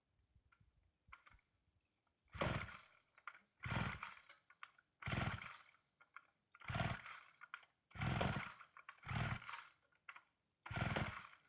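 Chainsaw pull-started over and over: seven rasping pulls of the recoil starter cranking the engine, about one every second and a half, without the engine catching. The saw is being restarted after sitting unused since last season.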